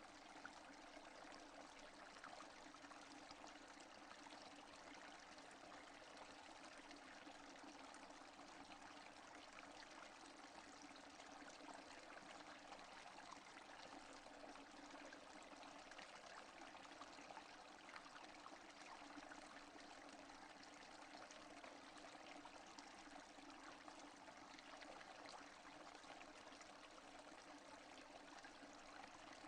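Steady rain falling, a faint, even hiss of many small drops, with no thunder.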